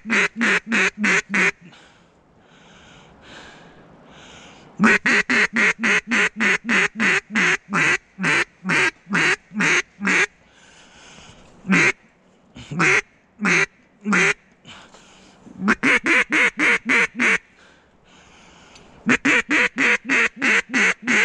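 Duck call blown by a hunter in runs of loud, rapid quacks, several sequences with short pauses between, the longest run slowing toward its end. Fainter quacks sound in the gaps.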